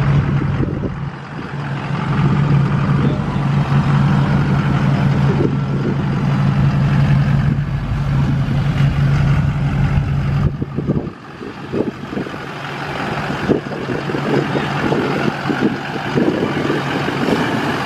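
Diesel pickup truck engine running hard at a steady pitch on a chassis dyno, then falling off about ten seconds in and running on more quietly.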